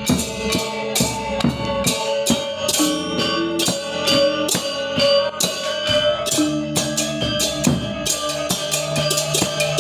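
Balinese gamelan gong ensemble playing: a rapid run of struck metal keys over ringing held tones, with drum strokes.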